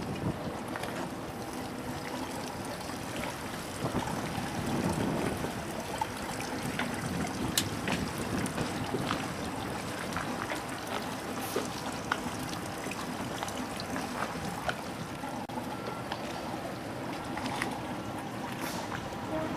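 Water trickling and splashing around a small boat, with a faint steady hum underneath and scattered small clicks and knocks.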